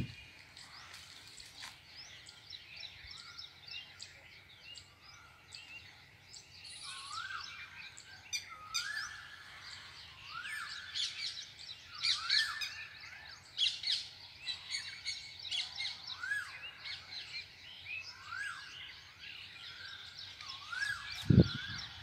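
Birds chirping and calling: many short high chirps, joined about a third of the way in by a rising-and-falling call repeated roughly once a second.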